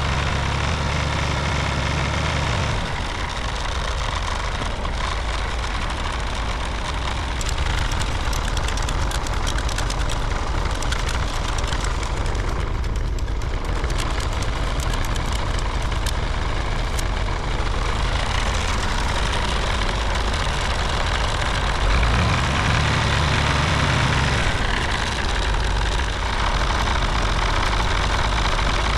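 A vehicle engine running steadily, its deep low note fading about three seconds in and coming back strongly around twenty-two seconds.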